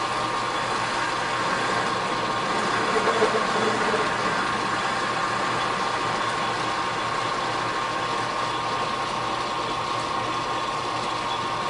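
A machine tool running steadily with a constant whine while a boring cut cleans up the bottom face of the bore in a steel part.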